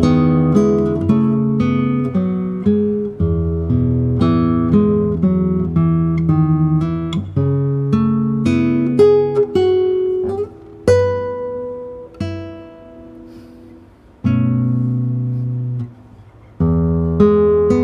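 Solo acoustic guitar playing a fingerpicked piece: plucked melody notes over bass notes. About ten seconds in it thins to a few single notes left to ring out, then the full playing comes back near the end.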